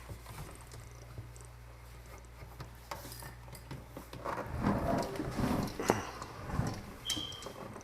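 Low steady electrical hum that stops about halfway through, followed by scattered light knocks and rustling of handling. A short high beep sounds near the end.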